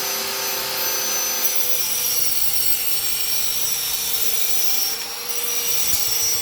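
Electric angle grinder working on sheet steel: a steady motor whine under a harsh, high-pitched grinding hiss, with brief drops in loudness about five seconds in and near the end as the disc eases off the metal.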